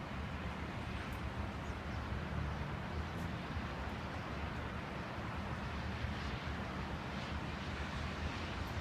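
Strong storm wind blowing steadily: a continuous rushing noise over a low rumble of wind on the microphone.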